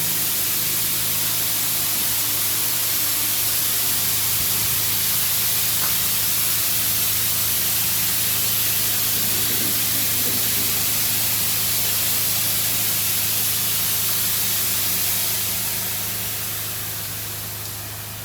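Touch-free automatic car wash spraying liquid onto the car, a steady hiss over a low pump hum, fading away near the end as the pass stops.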